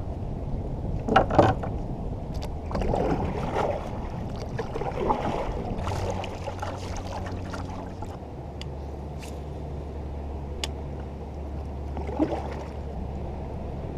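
Knocks and water sounds around a kayak, over a steady low motor hum that drops in pitch about eight seconds in.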